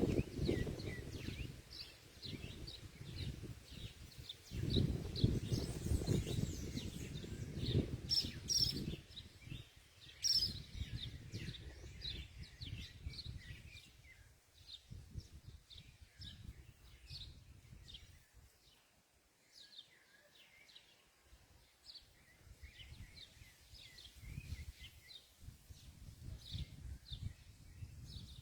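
Small birds chirping, short high calls repeated a few times a second, with a low rumble in the first third.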